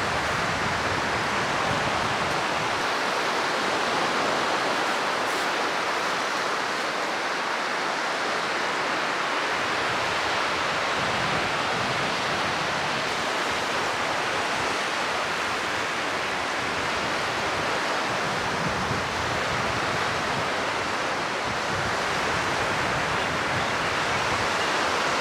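Sea surf washing over a shallow rock ledge: a steady, even rush of water.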